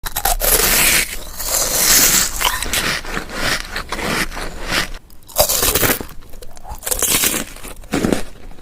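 A person biting into and chewing crunchy food close to the microphone. Dense crunching for the first few seconds gives way to separate, sharp crunches.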